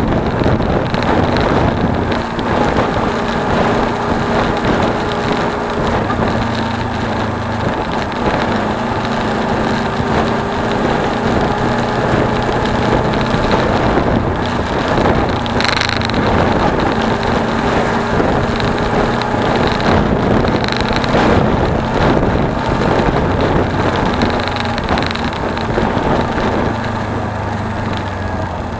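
Suzuki V-Strom 250's parallel-twin engine running steadily while the bike is ridden, its pitch drifting gently, under a steady rush of wind and road noise. One sharp click comes about halfway through.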